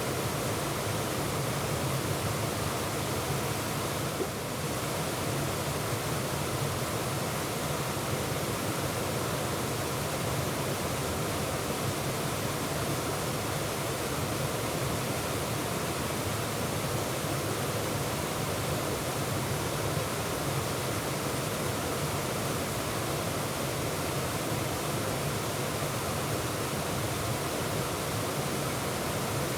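Waterfall: white water pouring and splashing in a steady, unbroken rush, heard from close by in the middle of the falls.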